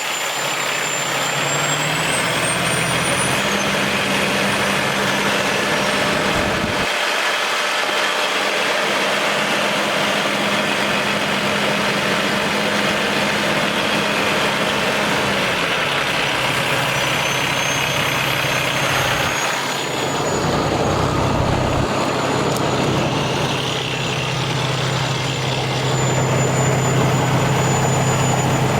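2014 Freightliner Coronado water truck's diesel engine idling, a steady low hum whose pitch shifts a few times.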